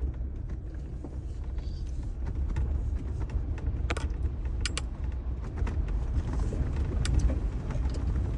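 Jeep driving: a steady low rumble with scattered clicks and rattles.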